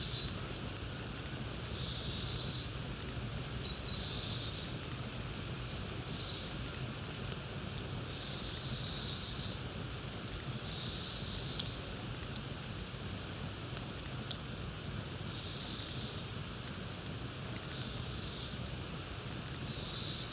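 Campfire crackling steadily with scattered sharp pops, over a low rumble. Birds call above it, one short high call repeating about every two seconds, with a couple of brief chirps.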